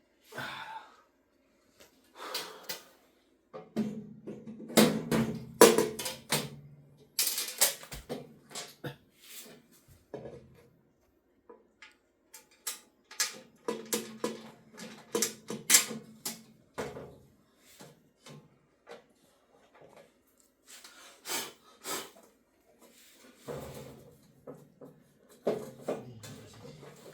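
Irregular clicks, knocks and rattles of equipment parts being handled and fitted together, coming in clusters with short pauses between them.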